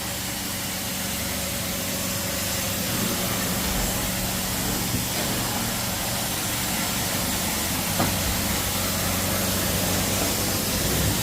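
Carpet-cleaning extraction machine running steadily: a constant hiss over a low hum, with a faint click about eight seconds in.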